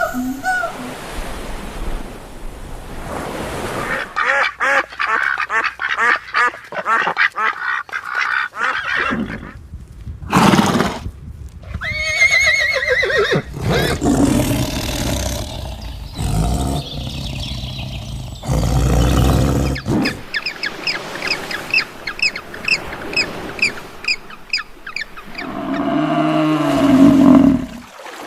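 Ducks quacking in a run of short clips, with other farm animal calls between them, some as quick repeated notes.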